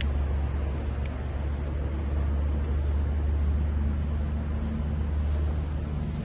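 Wood fire burning hard in a compact portable fire pit: a steady low rumble of the flames with a few faint crackles.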